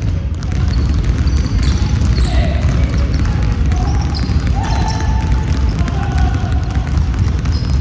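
Basketball being played on a gym court: the ball bouncing on the floor, with short sneaker squeaks and brief shouts over a steady low rumble.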